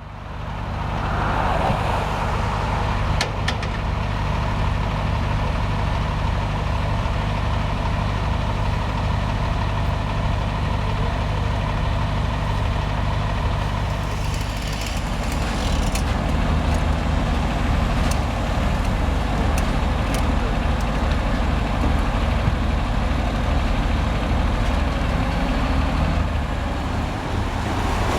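Large truck engine idling steadily, with a low even pulse and a few short clicks.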